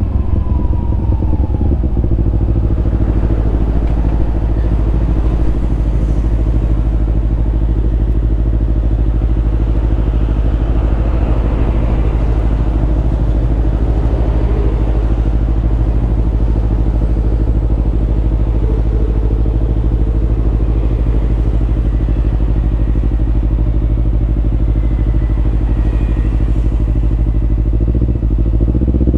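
Kawasaki Ninja 250 parallel-twin engine idling steadily through a Yoshimura aftermarket exhaust, settling in the first couple of seconds. Near the end the revs begin to climb.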